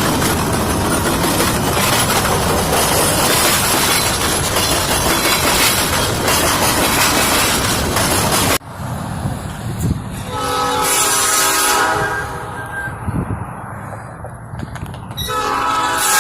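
Norfolk Southern train: a loud, steady rumble of the train rolling past, which cuts off suddenly about halfway through. This is followed by a locomotive's multi-note air horn sounding one long blast and then another starting near the end.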